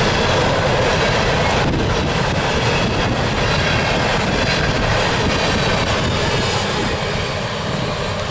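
Empty steel coal gondolas of a unit coal train rolling past, wheels rumbling and rattling on the rails in a steady din that eases off near the end as the last car goes by.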